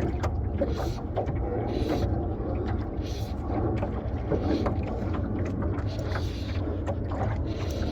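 Steady low rumble of a small fishing boat on the water, with puffs of hiss and a few light knocks now and then.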